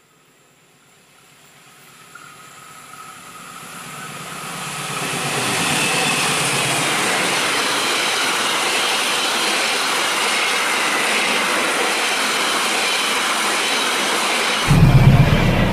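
Diesel-hauled passenger train approaching and passing close by: the rolling noise of wheels on the rails grows louder over the first five or six seconds, then holds steady as the coaches go past. Near the end the sound changes abruptly to a louder, deeper rumble.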